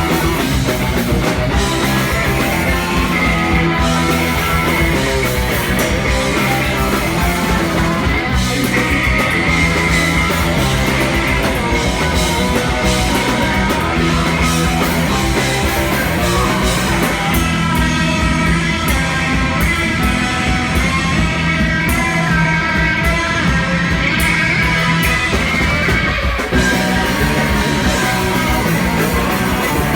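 Punk rock band playing live at full volume, electric guitars to the fore over drums, with a brief break about three-quarters of the way through.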